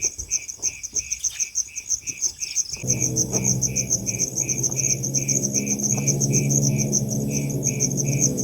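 Crickets trilling steadily, with a second chirp repeating about three times a second. About three seconds in, a low steady hum of several tones joins them.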